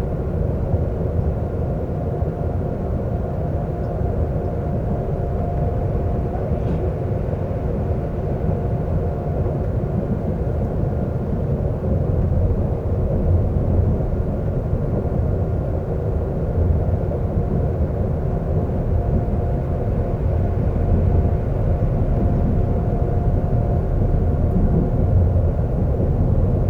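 Seoul subway train running steadily between stations: a continuous low rumble with faint steady whine tones over it.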